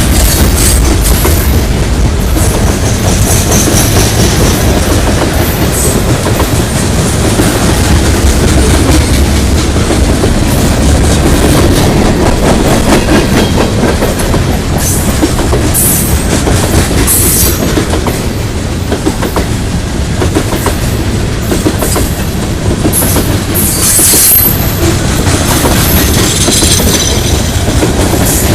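Manifest freight train cars rolling past, wheels clicking over rail joints over a steady loud rumble, with short bursts of high-pitched wheel squeal.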